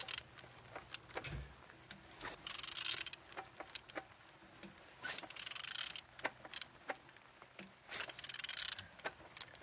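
Used engine being turned over by hand: scattered clicks and three rasping spells, each under a second, as the crankshaft is rotated. The engine turns freely, a sign that it is not seized.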